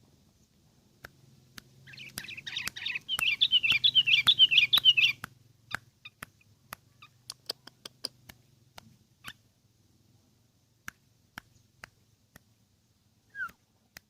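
Sooty-headed bulbul (kutilang) singing: a loud, rapid run of chattering notes about two seconds in that lasts about three seconds, followed by scattered short clicks and a single short falling note near the end.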